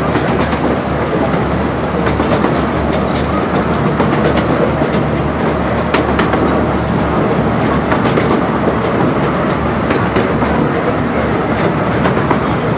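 A 15-inch gauge miniature railway carriage running steadily along the track, a continuous rumble of the wheels with scattered sharp clicks.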